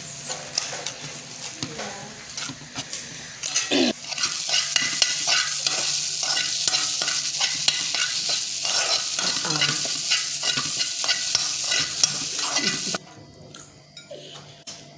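Food sizzling as it fries in a pan while a utensil stirs it, clicking and scraping against the pan. The sizzle grows loud about four seconds in and cuts off suddenly near the end.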